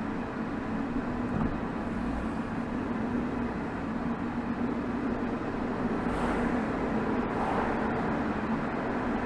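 BMW B47 2.0-litre four-cylinder turbodiesel heard at the tailpipe, running at a steady drone while the car drives, swelling slightly about six seconds in.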